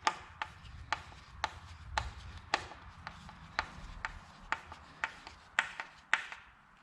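A steady series of sharp clicks, about two a second, from hand-tool work on a new rake being assembled.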